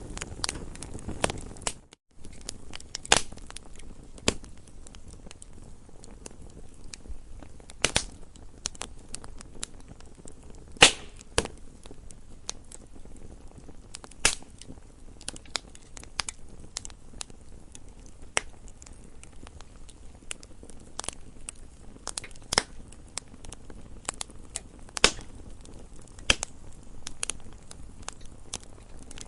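Campfire crackling: a soft steady hiss of burning wood with irregular snaps and pops, a handful of them louder. The sound drops out for a moment about two seconds in.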